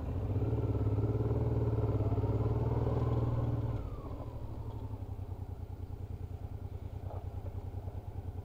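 Honda Africa Twin XRV750 V-twin engine heard from the rider's seat, pulling up a gravel track with its note rising. About four seconds in the throttle is eased off and it drops to a quieter, steady run.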